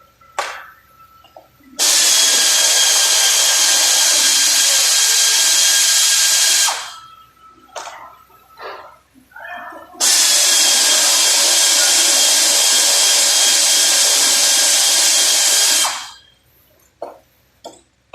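A power tool running in two long bursts of about five and six seconds, a loud steady hiss with a faint whine, each starting suddenly and dying away; a few short knocks fall between and after the bursts.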